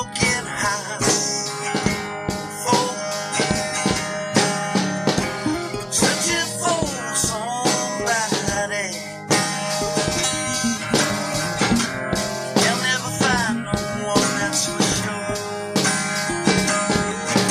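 Band music with guitar over a steady beat. Lead notes bend and glide around the middle of the stretch and again a little later.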